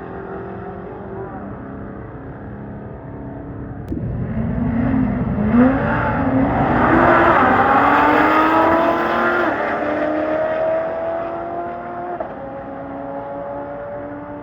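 A car accelerating hard, its engine note climbing and dropping back at each gear change several times. It grows loud about four seconds in, peaks, then fades. Other engines idle underneath.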